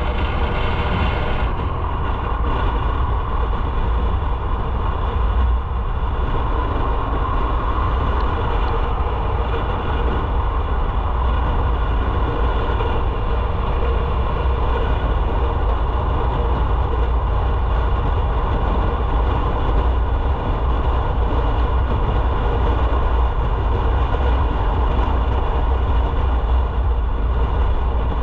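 Motorcycle running steadily while being ridden, with a constant low rumble.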